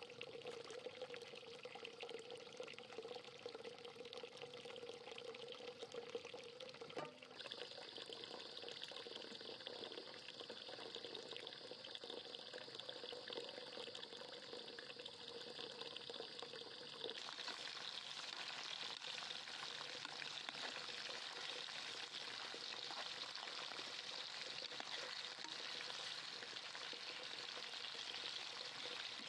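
Rice and water tipped from a bowl into a pot on a gas burner. After a sudden change about seven seconds in there is a steady hiss. From a little past halfway, chicken pieces sizzle as they fry in a pan and are stirred with a ladle; this frying sizzle is louder and is the loudest part.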